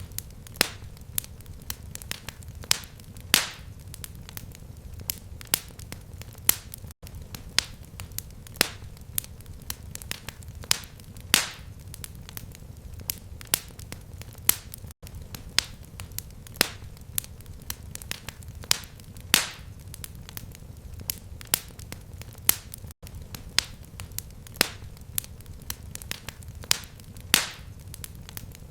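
Fireplace fire crackling: irregular sharp pops and snaps, a few every second with some much louder, over a low steady rumble of the flames.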